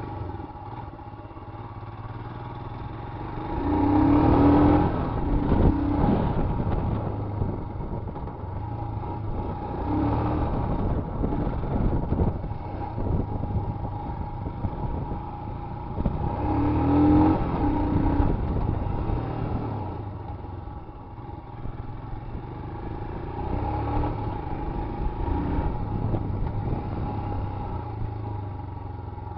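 Royal Enfield Himalayan motorcycle engine on a dirt track, revving up in four surges about six to seven seconds apart, easing off between them.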